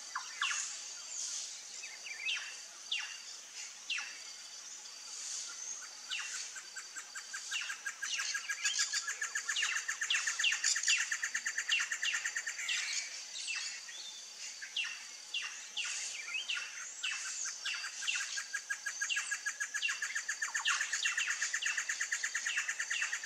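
A chorus of wild birds calling: many overlapping short, sharp chirps that fall in pitch. A fast steady trill joins in about eight seconds in and runs on beneath the chirps.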